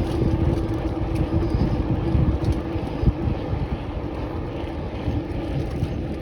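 Wind rumbling and buffeting on the microphone while riding along, with a steady low hum underneath that fades out about five seconds in.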